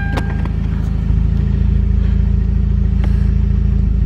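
Rebuilt turbocharged 2.0-litre Theta four-cylinder of a Hyundai Genesis Coupe idling steadily while warming up for break-in, with a sharp click just after the start.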